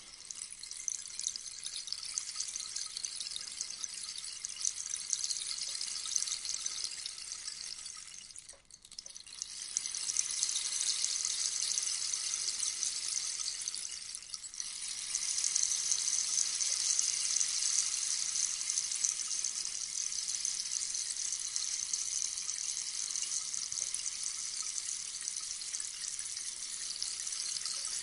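Rainstick: pellets trickling down through the tube in a steady, high, rain-like hiss. The flow thins out briefly about 9 seconds in and again about 14 seconds in, as the stick is turned over, then runs on.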